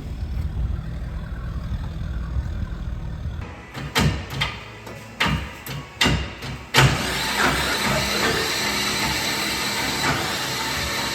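Vehicle engine running with a low steady rumble. Then comes a run of five or six sharp knocks and bangs between about four and seven seconds in, after which a louder, steady rushing noise takes over.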